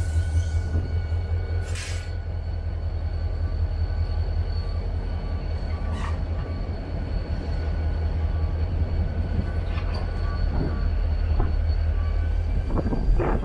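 Union Pacific freight train passing: a steady deep rumble, with faint steady whines above it and a few brief clicks.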